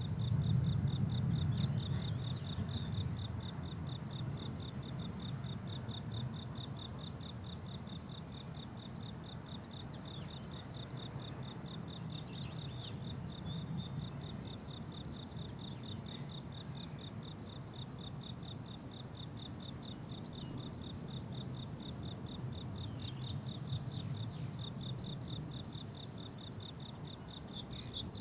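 Chorus of crickets chirping in a fast, even, high-pitched pulsing that carries on steadily, with a faint low rumble underneath.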